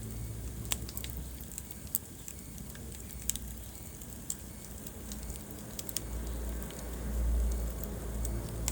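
Wood fire burning in a fireplace: scattered sharp crackles and pops about once a second over the low rumble of the flames, which swells about two-thirds of the way through.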